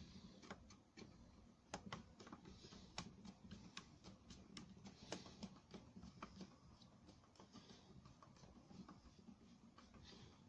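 Faint, irregular small clicks and taps of hands working on a hedge trimmer's carburettor and fittings, over a low background hum.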